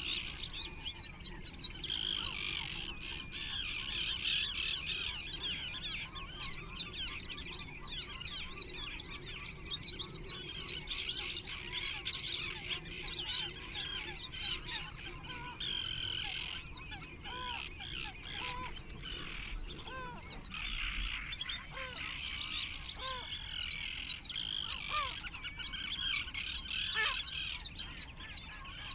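Many birds calling at once: a dense, continuous chorus of overlapping high chirps and chatter. Through the middle and later part, shorter, lower calls that rise and fall are scattered among them.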